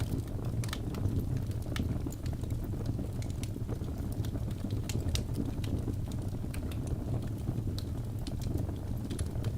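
Birch logs burning in a fireplace: a steady low rumble of the flames with frequent sharp, irregular crackles and pops.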